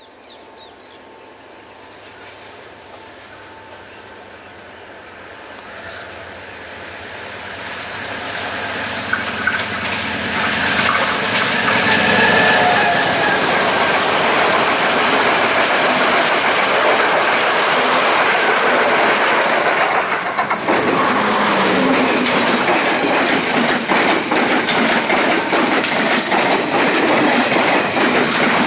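Diesel-hauled passenger train approaching and passing close by at speed: the sound grows louder over the first ten seconds, then the coaches' wheels rattle and clickety-clack rapidly over the rail joints. After a cut about 20 seconds in, another train's coaches rush past with the same loud clatter.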